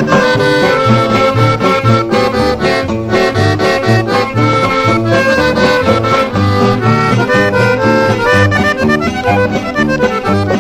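Instrumental break of a Mexican norteño song: accordion playing the melody over a steady bass beat, with no singing.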